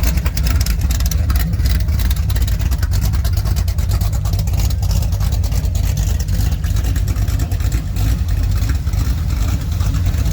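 A motor vehicle engine running steadily close by, with a constant low rumble and a busy crackle over it.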